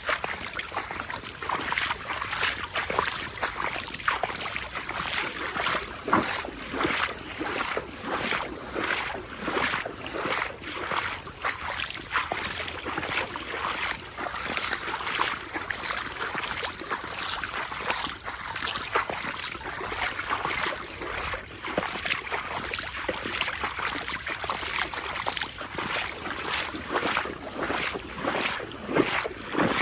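Footsteps wading through shallow floodwater, with a splash and slosh at each stride in a steady walking rhythm.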